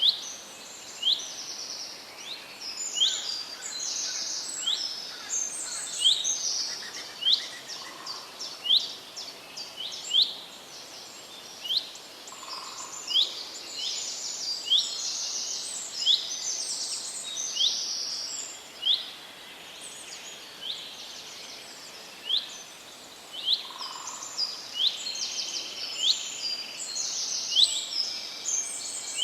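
Forest birdsong, several birds singing at once: one repeats a short high chirp about once a second while others sing quick, high trills over a faint background hiss.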